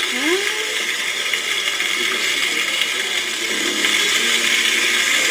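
Contrafilé steak, palm hearts and biquinho peppers sizzling in a frying pan: a steady hiss.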